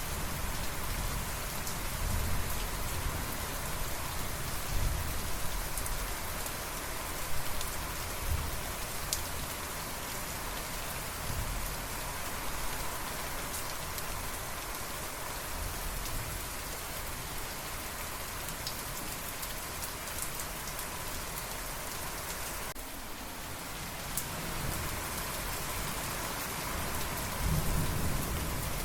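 Steady rainfall hissing evenly, with low rolls of distant thunder rumbling underneath a few seconds in and again, more strongly, near the end.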